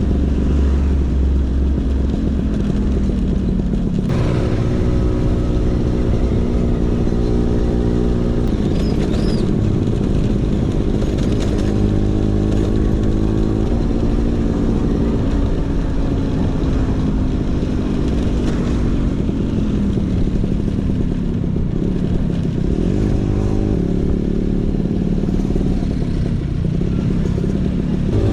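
Vespa PX 150's single-cylinder two-stroke engine running through a DRC Victory Racing aftermarket exhaust. Its pitch rises and falls repeatedly as it is revved and eased off.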